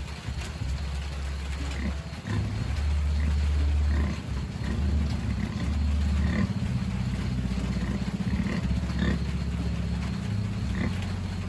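Sow grunting low and steadily, with brief high squeaks from piglets now and then.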